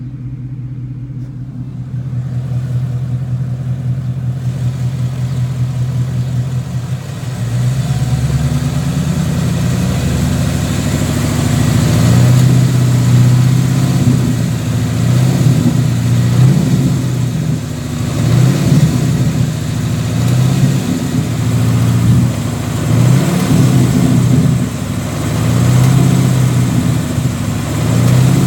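2017 Ford Mustang GT's 5.0 V8 idling in neutral, then blipped through repeated free revs from about seven seconds in, through an aftermarket catback exhaust. The engine carries the 'BBQ igniter' tick, a clicking like a gas grill lighter, which the owner has not been able to explain.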